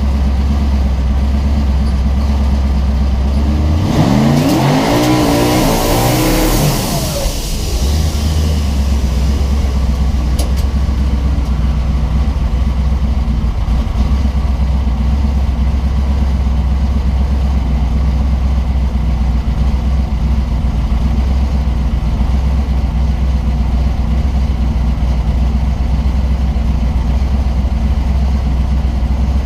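Twin-turbo 427 LS V8 of a drag car heard from the cabin: a steady low rumble, then about four seconds in a hard burst of throttle with the revs climbing for about three seconds and a rising hiss over it. The revs then drop and the engine settles back to a steady low rumble for the rest.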